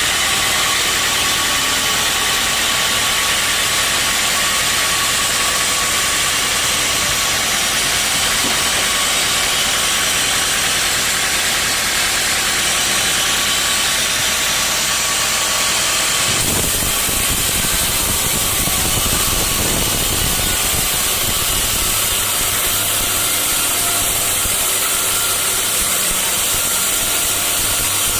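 Sawmill saw running steadily while cutting teak logs, a loud, continuous machine noise with a strong hiss. About halfway through, the sound changes and a deeper rumble comes in.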